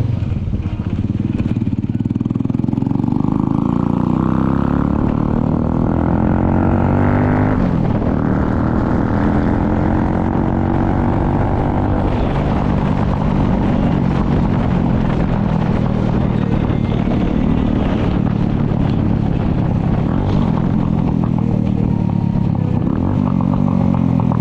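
Motorcycle engine running under way. Its pitch climbs steadily for several seconds, drops sharply about seven seconds in, then goes on with smaller rises and falls.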